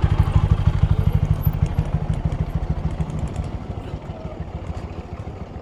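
An engine running with a rapid, even low beat, slowly fading away over the last few seconds.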